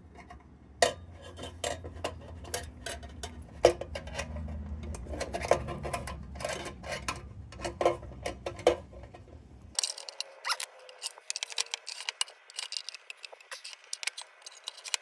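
Small sheet-metal lantern parts clicking and clinking as they are handled and fitted together during reassembly. The clicks come irregularly, several a second at times. A low hum underneath stops abruptly about ten seconds in.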